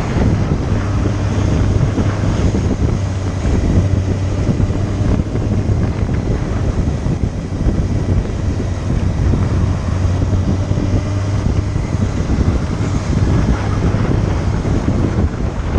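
Motorcycle engine running at a steady speed, a constant low hum under heavy wind buffeting on the microphone while riding.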